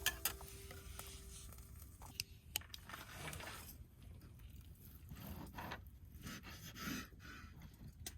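Faint scattered clicks and short scraping, rustling sounds of small objects being handled.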